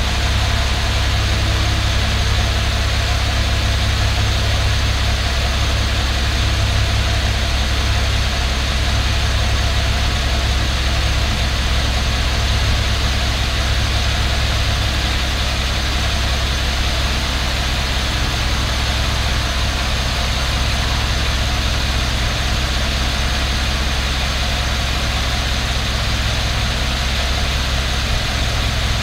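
A 2012 Cadillac SRX's 3.6-litre V6 idling steadily through its stock exhaust. The engine itself is heard more than the exhaust note.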